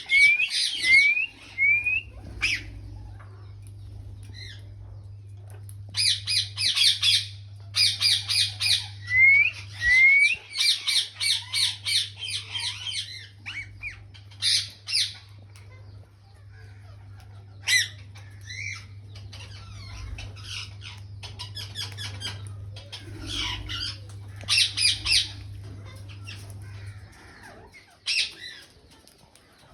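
Alexandrine and ringneck parakeets giving harsh, rapidly repeated screeching calls in bursts, with a few short rising whistles between them. A steady low hum runs underneath and stops near the end.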